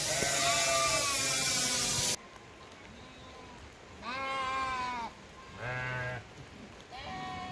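Sheep bleating, several calls one after another. The first call comes over a loud hiss that cuts off suddenly about two seconds in.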